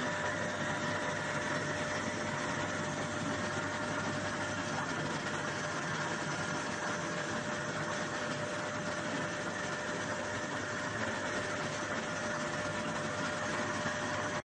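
Soybean washing machine running steadily: an even mechanical hum with a constant tone through it.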